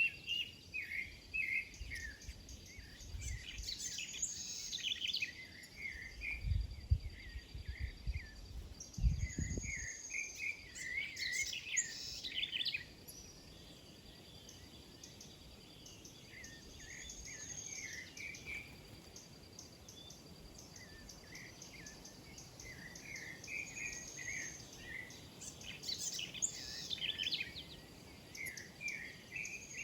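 Small birds chirping and calling over and over, with short high whistles every few seconds and a faint steady high tone. A few low rumbles come about six to ten seconds in.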